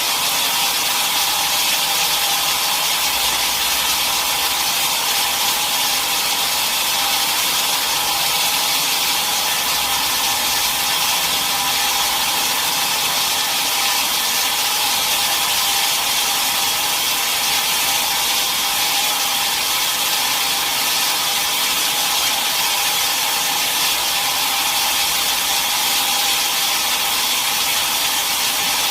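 Sawmill saw cutting steadily through a mahogany log: a continuous, even, high-pitched noise that neither rises nor falls.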